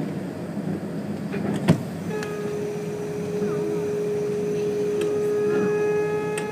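Diesel railbus standing with its engine idling in a steady low rumble. A sharp click comes about a second and a half in, and from about two seconds in a steady whine is held alongside.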